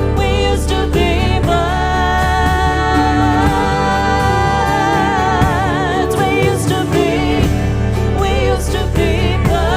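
Live band music: long, wavering melody notes held over a steady low accompaniment, in a passage of the song without sung words.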